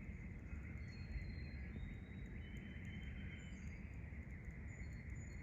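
Outdoor ambience: a steady low rumble under a constant insect trill, with a few short, thin, high whistles from birds.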